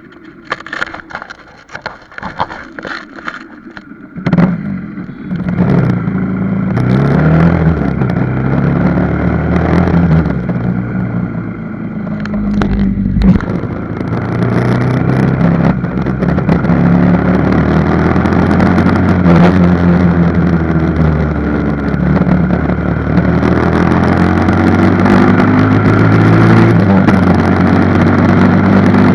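Motorcycle engine running, quiet with scattered clicks for the first few seconds, then loud from about four seconds in, its pitch rising and falling as the revs change.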